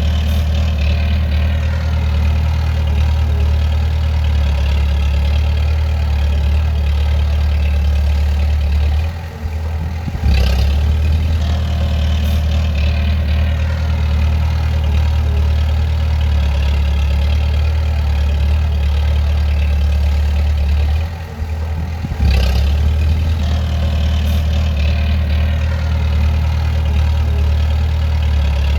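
Bulldozer's diesel engine running steadily with a deep drone; the sound dips briefly twice, about a third of the way in and again about three quarters through, then picks back up.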